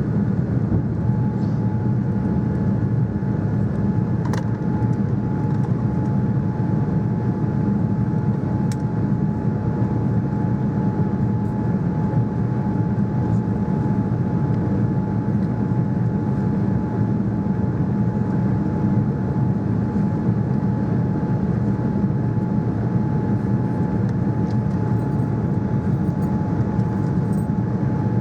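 Steady cabin noise of a Boeing 787-9 Dreamliner: a low, even drone of engines and airflow, with a faint steady whine above it.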